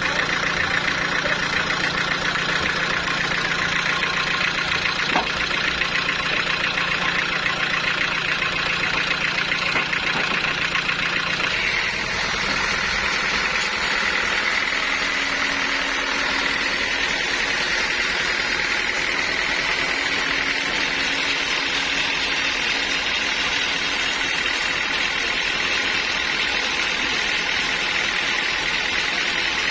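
Sawmill saw machinery running steadily and loud. About twelve seconds in, its sound changes: a low hum drops away and a higher whine takes over.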